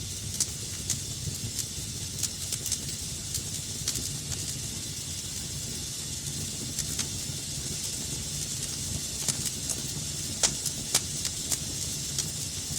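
Wood fire burning in a fireplace: a steady hiss and low rumble with frequent irregular crackles and snaps, a few sharper pops near the end.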